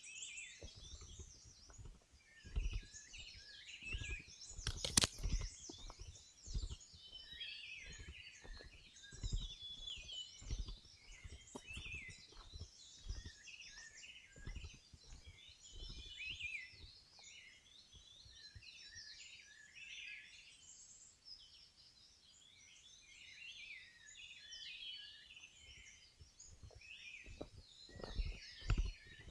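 Several wild birds singing and chirping at once in a continuous chorus. Under them, low footsteps thud along a trail about once a second, heavier near the end, with one sharp snap about five seconds in.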